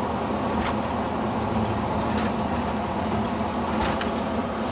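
Steady running and road noise of a moving vehicle, an even drone with a low hum, broken by a few faint clicks.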